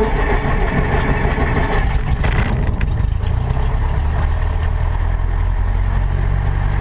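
Cessna 152's Lycoming four-cylinder engine starting up. It runs unevenly for the first few seconds, then settles into a steady idle.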